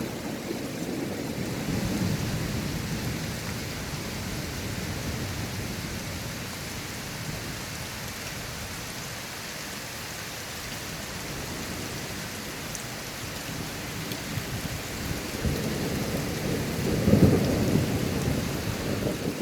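Steady heavy rain with rolling thunder: a rumble dies away in the first couple of seconds, and a new peal builds about two-thirds of the way in, loudest near the end.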